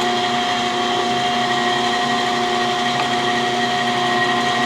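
Cam grinding machine running with a steady electric-motor whine and hum.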